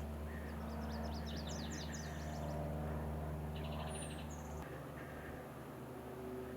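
Small songbirds singing: a quick run of high falling chirps, then a short buzzy pulsed call and a brief high whistle. Under them a low steady hum that stops about two-thirds of the way through.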